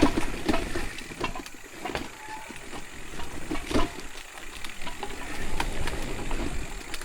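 Electric mountain bike moving down a rough dirt trail: irregular knocks, rattles and crunching over a low rumble.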